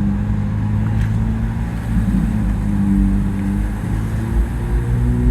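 Car engine droning steadily under heavy low road rumble, its pitch rising slightly near the end.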